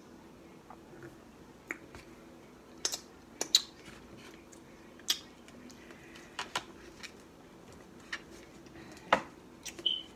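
Chewing a crispy fried burrito: scattered sharp crunches and wet mouth clicks, about a dozen, the loudest about three and a half seconds in and again near nine seconds.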